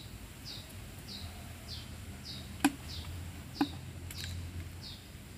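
A small bird calling over and over, a short falling chirp repeated just under twice a second. Two sharp taps, the loudest sounds, come near the middle, likely hands knocking the wooden hive box.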